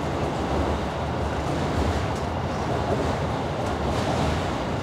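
Steady running noise of a train heard from inside the carriage as it crosses a steel truss bridge, with a few faint ticks.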